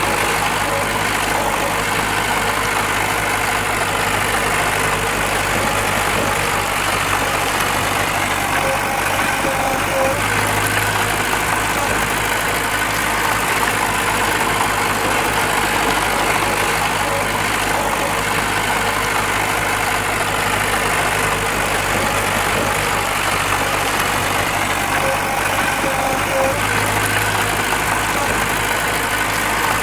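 Heavy diesel earthmoving machinery running steadily, a constant engine drone with no clear revs, knocks or rock impacts.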